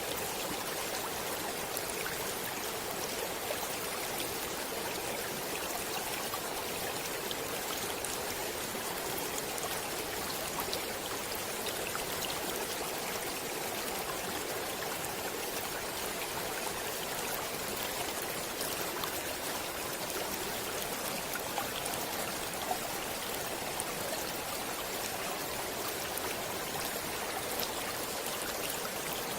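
Flowing water running steadily, an even rushing with small splashes and drips scattered through it.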